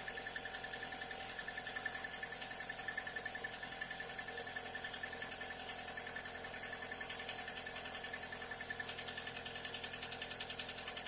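Mitsubishi 4A92 four-cylinder engine idling with a steady hum and a fast, regular knock, clearer in the second half. The knock is piston slap from the first cylinder, whose skirt is scuffed and whose compression is low.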